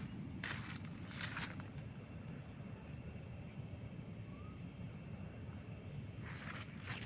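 Insect chirping in a quick, even train of high pulses, about five a second, over a steady high insect hum. Brief rustling footsteps through vegetation come near the start and again near the end.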